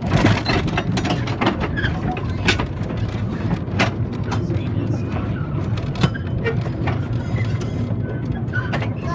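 A vehicle in motion: a steady low rumble with irregular clicks and rattles, starting abruptly.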